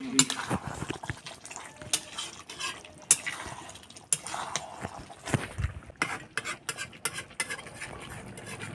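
A ladle stirring chicken in a cooking pot, scraping and clinking against the pot's sides in quick, irregular strokes as the chicken is fried down (kasha).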